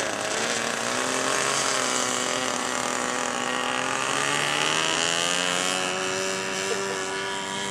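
Radio-controlled model aircraft engine running in flight. Its buzzing pitch drifts slowly up and down as the model moves and the throttle changes, with a higher whine rising and fading mid-way.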